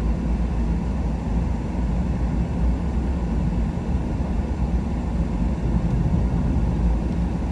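Truck driving at a steady pace: an even, low rumble of engine and tyre noise with no change.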